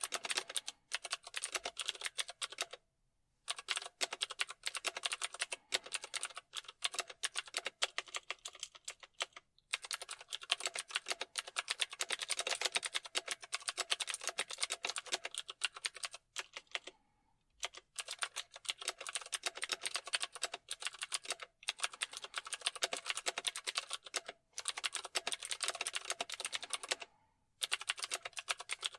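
Fast typing on a computer keyboard: a dense run of rapid key clicks, broken by several short pauses.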